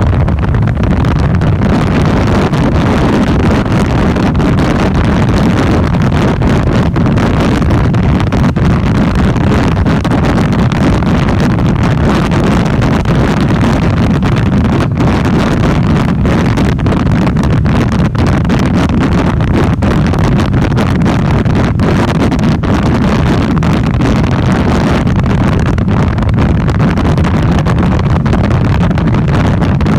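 Steady wind buffeting on the microphone of a motorcycle riding at speed, with the motorcycle's engine running underneath.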